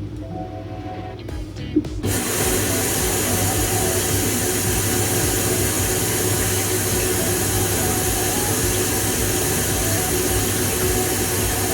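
AQUA AQW-DM12RL drum-type washer-dryer running: a steady rushing noise with a low hum starts suddenly about two seconds in, with background music.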